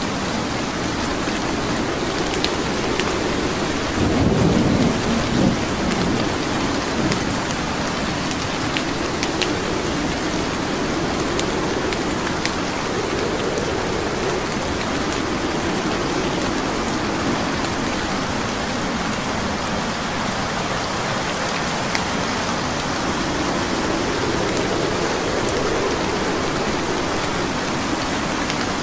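Steady rain with scattered sharp pops of a wood fire crackling, under low rolling rumbles of thunder that swell strongest about four seconds in and again near the end.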